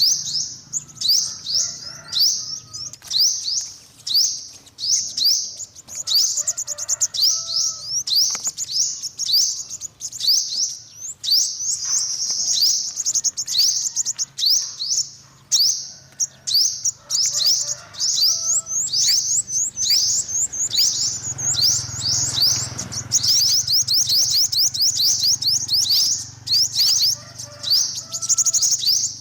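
Yellow-bellied sunbird calling: a fast, unbroken run of high, thin chirps, each sweeping down in pitch, two or three a second.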